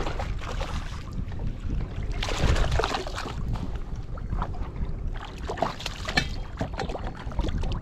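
Wind rumbling on the microphone aboard a fishing kayak, with short bursts of crackling noise about two and a half and six seconds in.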